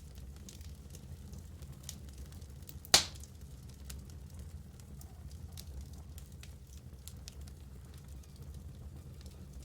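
Wood fire burning in a fireplace, a low steady rumble with scattered faint crackles, and one loud sharp pop about three seconds in.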